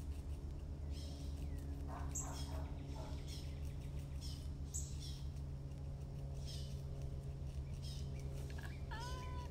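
Small birds chirping on and off, short high chirps every second or two, over a steady low hum.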